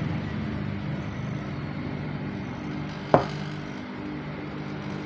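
Compressor motor running with a steady hum while a refrigerator's sealed system is evacuated and charged with R600a refrigerant. A single sharp click about three seconds in.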